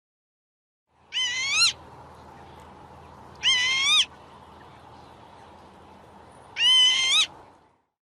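Northern lapwing calling: three drawn-out calls, each about half a second long and a few seconds apart, over the faint hiss of a field recording.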